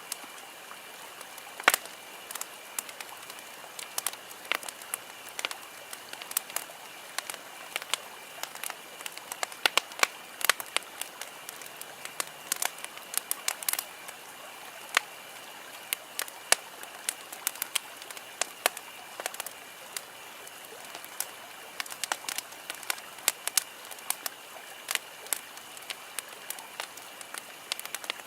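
Wood campfire crackling, with irregular sharp pops and snaps over a steady low hiss of burning.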